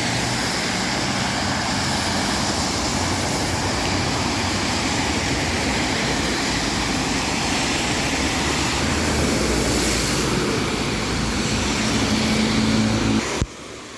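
Steady outdoor traffic noise with a low engine hum, which cuts off abruptly near the end.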